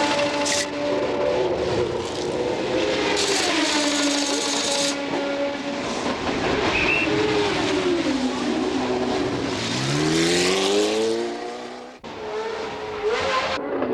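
1970s Formula 1 car engines at racing speed, their pitch falling and rising as the cars brake, change gear and accelerate. Near the end one engine revs up hard in a long rising whine, then the sound breaks off abruptly and resumes with engine noise.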